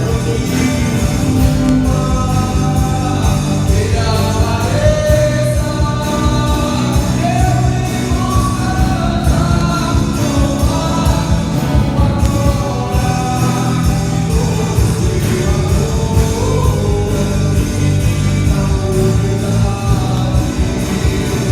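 Christian worship song performed by a band, with a singing voice carrying the melody over the instruments.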